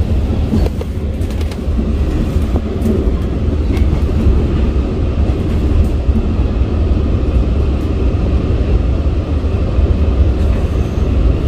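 Long Island Rail Road passenger train running, heard from inside the car: a steady low rumble of wheels on track, with a few faint clicks about a second in.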